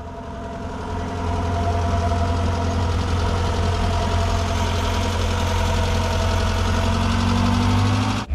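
A car engine running at low revs, growing louder over the first second or so and then holding steady, with a slight rise in pitch near the end.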